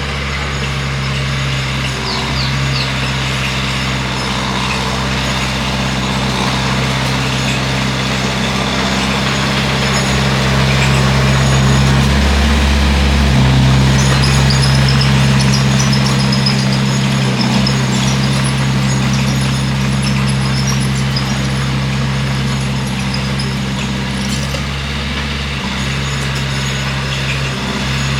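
Bulldozer diesel engine running steadily under load, growing louder and shifting in pitch around the middle.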